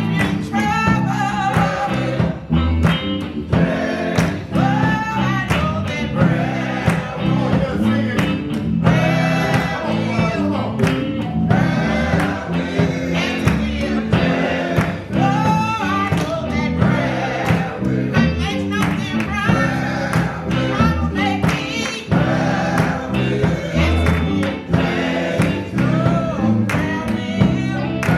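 Gospel music: singing over instrumental accompaniment with a steady beat.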